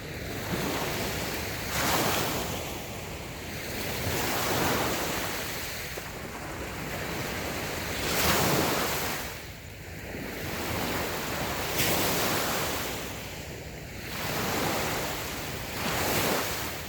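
Small waves breaking and washing up a sandy beach, one swell of surf every two to three seconds, with wind on the microphone.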